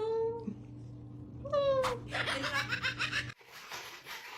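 A cat meowing twice, the second meow about a second and a half in. Laughter-like sounds follow, broken off abruptly a little over three seconds in.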